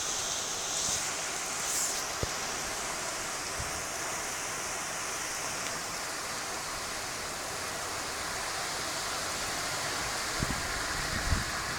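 Heavy thunderstorm downpour: a steady hiss of rain, with a few dull knocks near the end.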